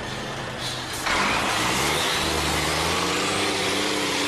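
Diesel truck engine revving hard off road, its note rising for a couple of seconds from about a second in and then holding at high revs.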